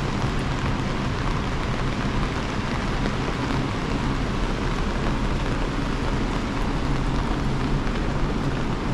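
Steady rain falling, an even hiss without pause, with a low steady hum underneath.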